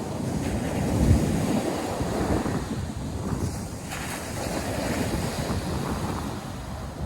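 North Sea surf breaking on a beach, with wind buffeting the microphone in gusts, the strongest gust about a second in.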